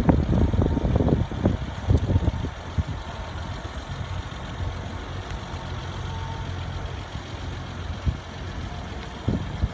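BMW 325i's 2.5-litre straight-six idling steadily after a cold start. Wind buffets the microphone in the first couple of seconds and again near the end.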